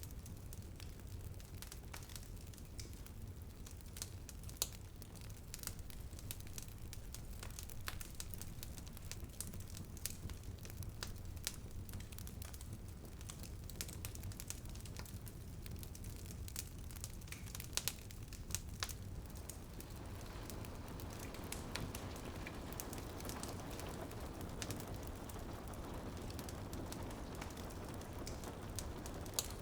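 Wood fire in a fireplace crackling and popping in sharp irregular snaps over a steady low rumble. About two-thirds of the way through, a soft patter of rain on a window fades in beneath the crackles.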